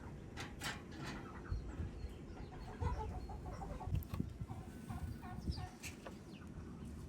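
Chickens clucking: a run of short repeated calls, with a few sharp clicks and knocks among them.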